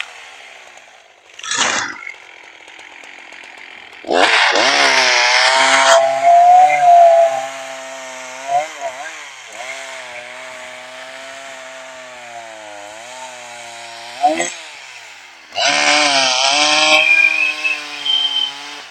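Chainsaw idling, revved hard in short bursts: briefly about a second and a half in, for about two seconds a few seconds in, and again near the end, dropping back to idle between.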